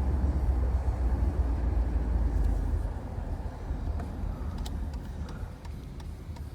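Mercedes-Benz R129 500SL's 5.0-litre V8 with the mufflers deleted, a low exhaust rumble under road and wind noise while cruising with the top down; the rumble drops off about halfway through.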